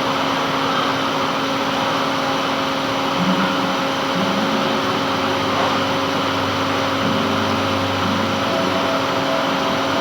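Metal lathe running steadily while a gland is being turned, a constant machine drone with a steady hum and brief changes in pitch a few seconds in.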